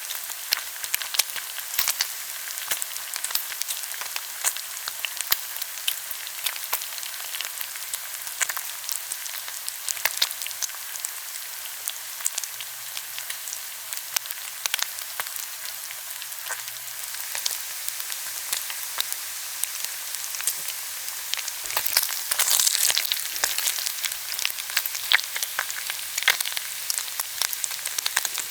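Pork belly and kimchi sizzling on a grill: a steady high hiss of frying fat full of small crackling pops, busier and louder for a couple of seconds a little past the middle.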